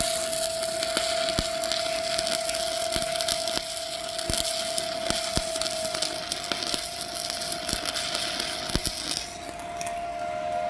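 Stick (arc) welding: the electric arc crackling and sizzling steadily with irregular pops, over a steady thin whine. The crackle dies down about nine seconds in.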